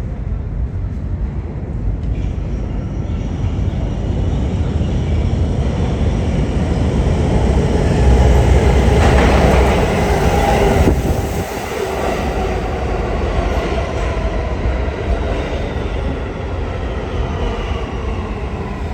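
R211A subway train running into the station: a heavy rumble that builds, peaks and drops, then electric motor tones falling slowly in pitch as the train slows.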